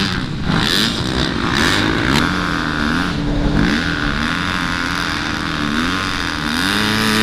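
Motocross dirt bike engines running on the track, their pitch climbing and dropping again and again as the riders work the throttle and shift gears; more than one bike is heard at once.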